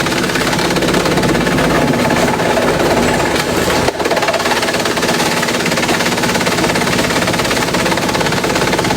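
Industrial bamboo shredding machine running loudly: a dense, continuous rattle over a steady motor hum, with a brief dip and a sharp click about four seconds in.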